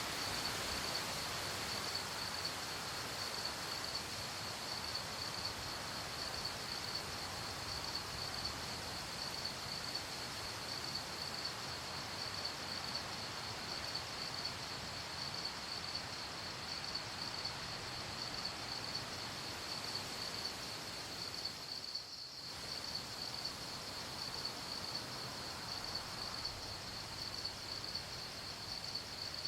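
Night chorus of crickets chirping in a steady, fast pulsing trill over a soft, even background hiss, with a brief dip in the sound a little past two-thirds of the way through.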